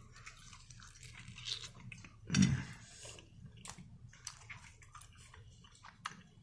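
Someone chewing and biting into a sauced chicken wing, with soft, wet chewing and small crunchy clicks. A short low murmur comes about two and a half seconds in.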